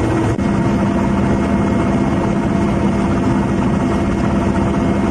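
Loud, steady engine drone with a constant hum; the pitch of the hum drops at a cut about half a second in.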